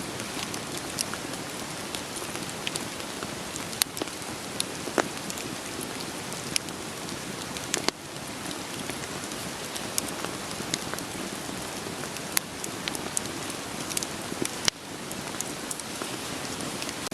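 Wood fire crackling with irregular sharp pops over a steady hiss of rain. The hiss drops suddenly twice, about halfway through and near the end.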